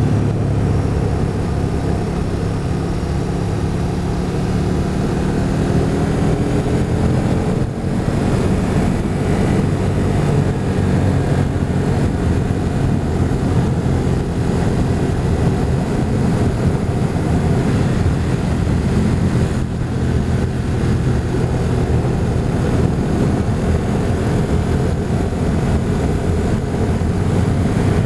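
Motorcycle engine running on the move, with wind and road noise throughout. The engine note shifts in pitch in the first few seconds and dips briefly twice, about 8 and 20 seconds in.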